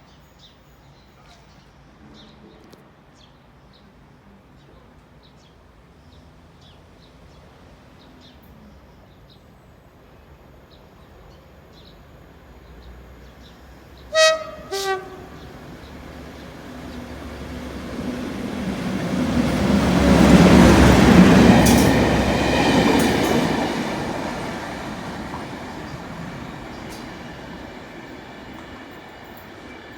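Class 37 diesel locomotive 37418 sounding its two-tone horn about halfway through, two short blasts, a higher note then a lower one. It then passes with its English Electric V12 diesel engine running, building up, loudest a few seconds after the horn, and fading away.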